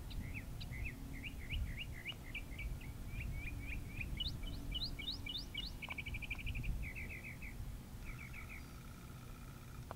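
A songbird singing a long, varied song of quick chirping notes, each phrase repeated several times before it changes to a new one, including a fast trill about six seconds in. Under it runs a low steady rumble.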